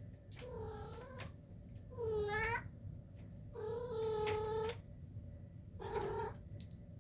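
Domestic cat meowing four times, each call under a second or so long; the third call is the longest and held fairly level.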